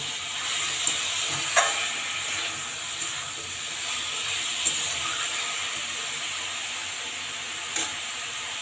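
Banana flower, prawns and potatoes sizzling in a kadai as they are stir-fried in spices, with a spatula stirring and scraping through them. A few sharp clicks of the spatula against the pan stand out over the steady sizzle.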